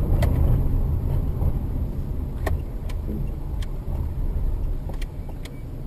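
A car driving, heard as a steady low rumble of engine and road noise that slowly fades, with a few faint sharp clicks.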